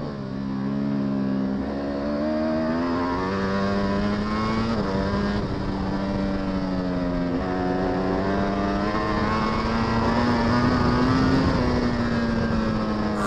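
Superbike racing motorcycle engine heard from onboard at high revs. Its pitch climbs and then drops abruptly several times as the rider changes gear, and it cuts off suddenly near the end.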